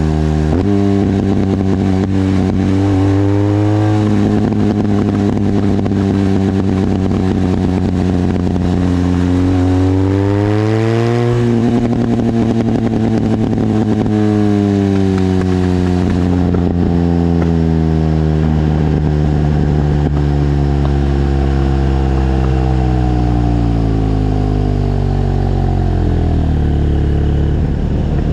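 BMW R1200GS's flat-twin boxer engine, heard through a Leovince exhaust with the dB-killer baffle removed. The note climbs and drops back twice in the first half, then falls slowly and steadily through the rest as the revs come down.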